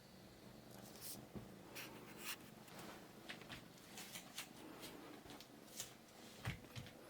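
A kitten's claws and paws scratching and tapping faintly and irregularly as it plays, with a soft low thump about six and a half seconds in.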